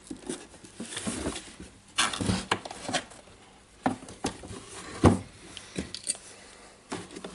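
Parts of a DeWalt DC011 site radio being handled and fitted together by hand: irregular knocks and clicks, the loudest about two and five seconds in.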